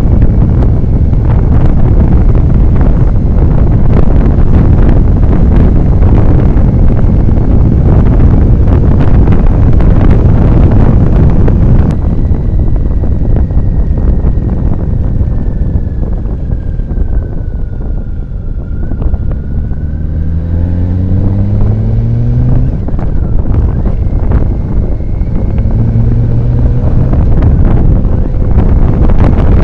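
Motorcycle riding at speed with heavy wind rushing over the microphone. About halfway through the wind noise eases, and the engine can be heard rising in pitch as the bike accelerates, before the wind rush builds again.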